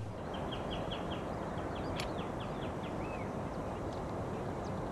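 A small bird calling a rapid series of short, falling chirps, about four or five a second, over steady outdoor background noise; the chirping stops about three seconds in.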